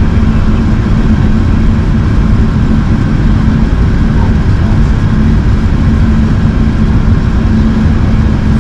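Steady cabin noise inside an Airbus A380 airliner in flight: a loud, even rumble of airflow and engines with a constant low hum.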